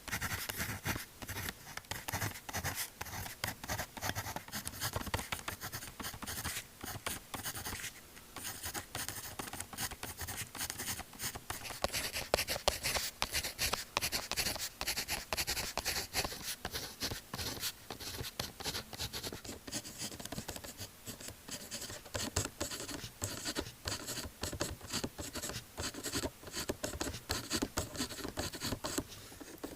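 Pen writing on notebook paper: quick, continuous scratching strokes with brief pauses between runs.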